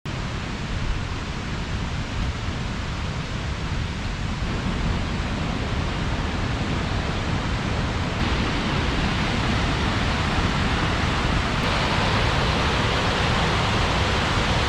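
Waterfall close by: a steady, dense rushing of falling water, growing louder about eight seconds in and again near twelve seconds.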